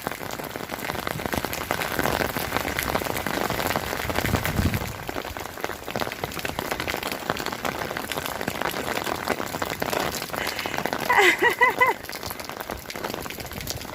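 Steady rain falling and splattering on surfaces. About eleven seconds in, a short high-pitched voice cries out over it.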